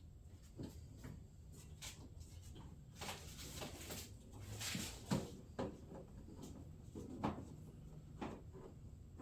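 Hand-handling noises: scattered small clicks and knocks with a brief rustle, the sharpest click about five seconds in, over a faint steady low hum.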